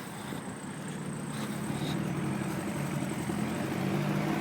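Motor vehicle engine running close by over road traffic noise, a steady low hum that grows gradually louder.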